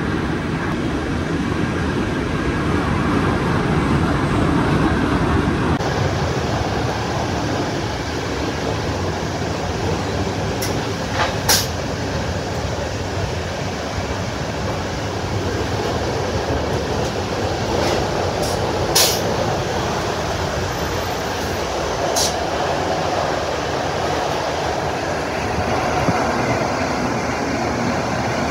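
Steady running noise of a moving PKP Intercity express train, heard from inside the passenger carriage, with a few sharp clicks, the clearest about eleven and nineteen seconds in.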